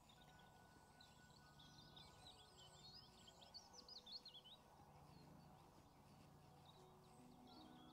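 Near silence with a songbird singing a quick, warbling phrase of high notes from about a second in until about halfway through.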